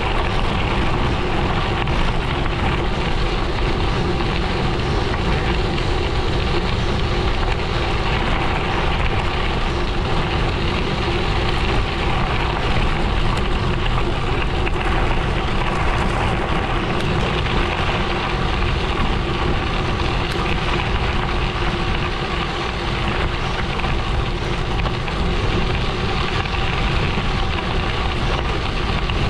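Gravel bike tyres rolling steadily over a loose gravel road, a continuous crunching hiss with wind rumbling on the microphone.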